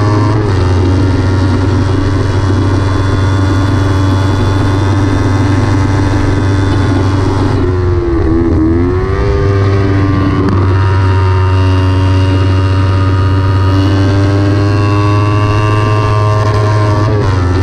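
Kawasaki Ninja 300's parallel-twin engine running hard at high revs on track. The revs hold or climb slowly, then drop and bounce briefly about halfway through before climbing back and holding high.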